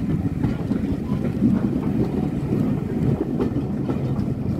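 Running noise inside a railway carriage of a steam-hauled train: a steady rumble of the wheels on the rails, with a few faint clicks.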